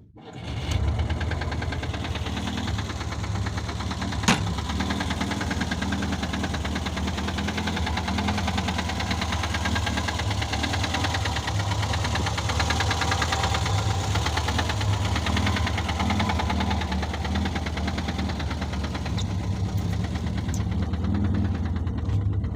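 VAZ-2106 Zhiguli's four-cylinder petrol engine idling steadily with a knock that the owner says is still there. A single sharp click sounds about four seconds in.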